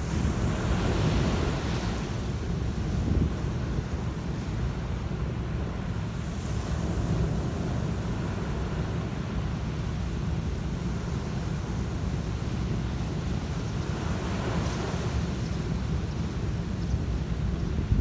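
Sea waves washing onto a beach, the surf hiss swelling three times, with wind buffeting the microphone in a steady low rumble.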